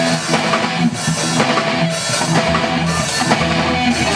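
Heavy-metal rock band playing, with electric guitar and drum kit.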